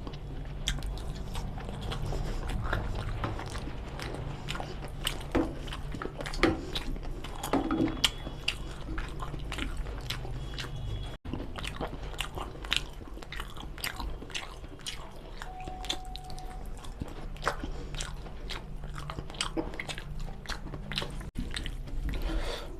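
Close-miked eating of mutton nalli curry with rice: chewing and biting, with many short wet mouth clicks and smacks, over a steady low hum.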